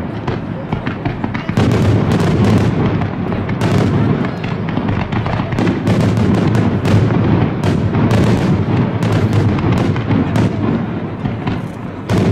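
Fireworks display: aerial shells bursting in quick succession, a dense barrage of bangs and crackle that eases briefly near the end.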